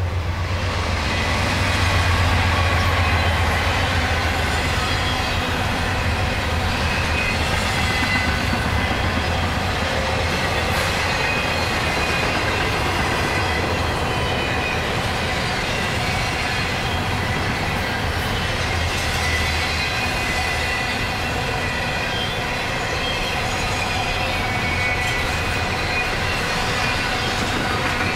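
Norfolk Southern double-stack intermodal freight train passing at close range. A deep rumble builds sharply at the start and stays heavy for the first few seconds. After that, the container cars keep rolling by with a steady, loud rolling noise and thin, high, steady wheel tones.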